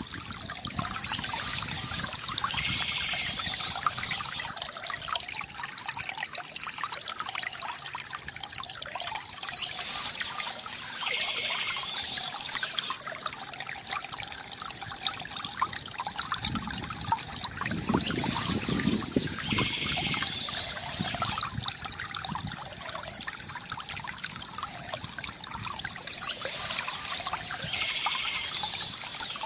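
Stream water trickling and splashing steadily over stones, with a brighter swell that comes back about every eight to nine seconds.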